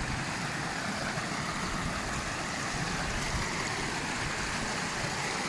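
Steady rush of fast-flowing water from a stream newly formed by heavy rain.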